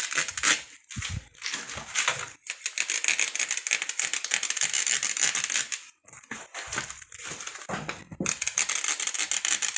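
A sharp knife slicing through the rubber of a car tyre: a gritty rasping cut in several long strokes, broken by short pauses.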